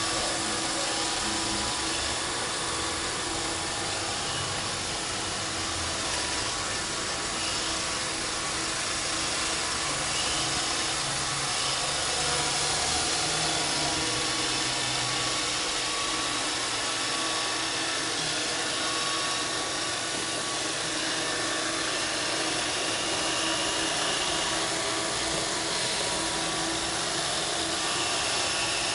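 Roomba 531 robot vacuum running: a steady whir from its vacuum motor and brushes that holds at an even level.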